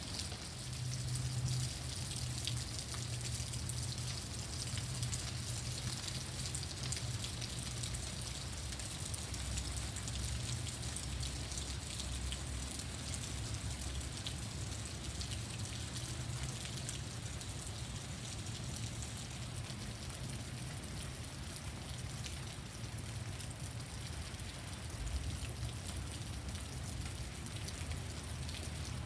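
Heavy rain pouring down steadily, a dense hiss of many drops hitting surfaces, with a low rumble underneath.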